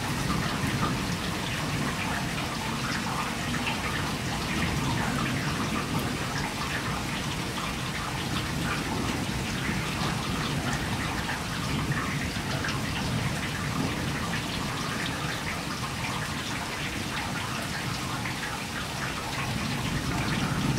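Heavy rain pouring down steadily onto trees, a wet street and parked cars, many single drops heard as small sharp ticks within the even rush of the downpour.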